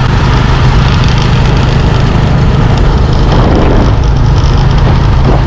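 Motorbike engine running steadily with a loud, constant rushing noise over it, as heard while riding. The sound cuts off right at the end.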